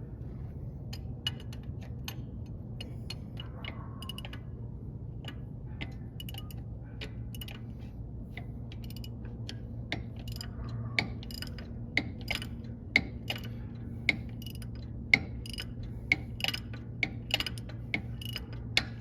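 Hand ratchet wrench clicking as a fastener is worked loose. The clicks come scattered at first, then settle to about one or two sharp clicks a second from halfway on. A steady low hum runs underneath.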